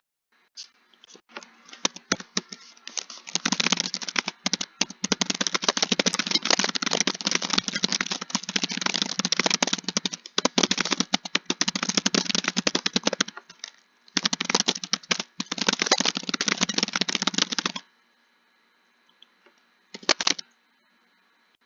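Fast typing on a keyboard: long unbroken runs of rapid keystrokes, a brief pause near the middle, then a shorter run and a last short burst near the end.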